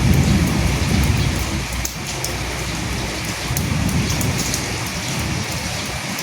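Steady rain, with sharp drop ticks over a continuous hiss. Under it a low rumble swells at the start and again around the middle.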